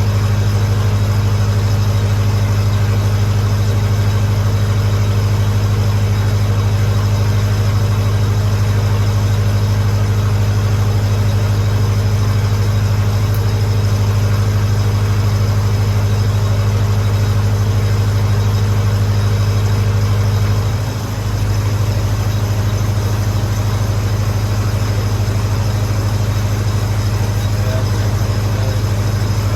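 Lincoln SA-200 engine-driven welder's gas engine running steadily while powering a TIG welding setup, with a brief dip in its sound about two-thirds of the way through.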